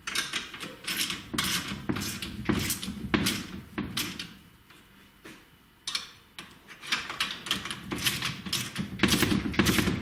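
A ratchet wrench with a 17 mm socket is worked in repeated quick strokes, running down bolts on a motorcycle's front fork. It rasps at about two to three strokes a second, with a pause of a couple of seconds midway.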